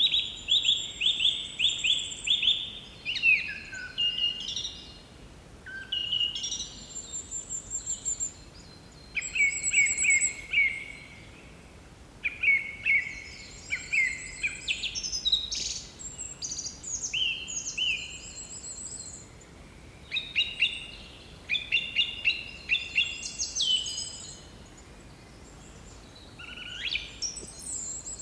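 Bird song: phrases of quick, repeated notes with higher whistled notes over them, given in bursts a second or two long with short pauses between.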